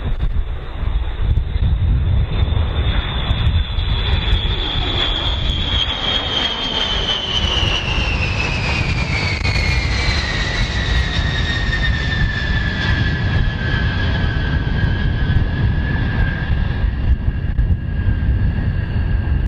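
Airplane engine sound as the aircraft flies past: a high whine holds steady, then slides down in pitch over about ten seconds and levels off lower, over a steady low rumble.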